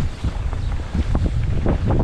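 Wind buffeting the microphone on a fast mountain-bike descent, with frequent short knocks and rattles from the bike running over rough trail.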